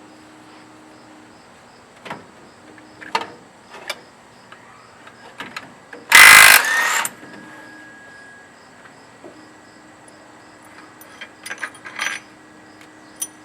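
Impact wrench firing in one short, loud burst to break loose the primary clutch bolt, about six seconds in, with light metallic clicks and clinks of sockets and tools being handled before and after.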